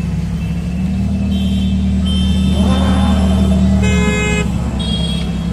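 Ferrari 430 Scuderia's V8 running steadily at low revs as the car rolls slowly, amid street traffic with car horns honking, one short horn blast about four seconds in.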